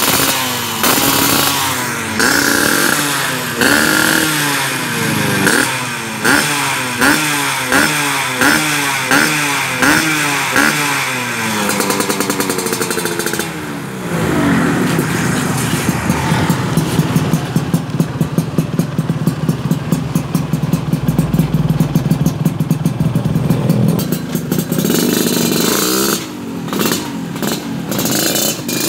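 Yamaha RX-King's single-cylinder two-stroke engine through a 'Lobster' racing exhaust. It is revved in quick throttle blips about once a second, then held running steadily for about ten seconds, then blipped again near the end.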